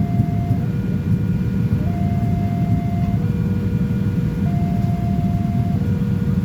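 Level-crossing warning alarm sounding two alternating tones, low then high, switching about every 1.3 s. Underneath it is a loud, steady low rumble of a train passing the crossing.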